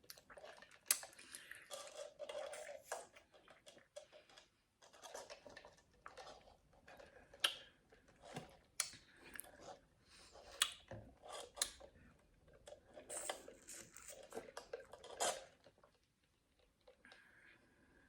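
Mukbang eating sounds: a person chewing and crunching food, heard as irregular short crunches and clicks with brief pauses.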